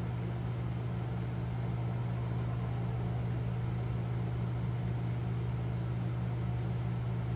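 Microwave oven running: a steady low hum with an even fan-like whir.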